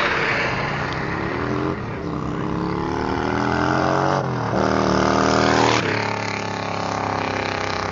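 Motorcycle engines revving as bikes ride past. The pitch climbs twice with a short drop between, like an engine pulling through a gear change, then settles lower near the end.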